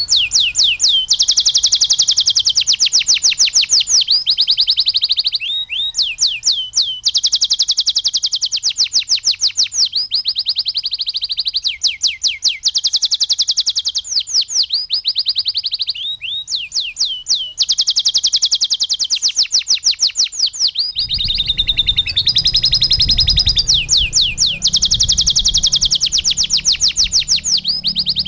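Domestic canary singing a song filled with lovebird-style phrases: long, rapid trills of repeated high sweeping notes in phrases broken by short pauses. A low hum joins about two-thirds of the way through.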